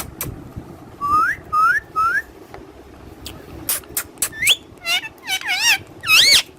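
Pet parrot whistling: three short rising whistles about a second in, then sharp chirps and another rising whistle, ending in a loud warbling whistle that goes up and down.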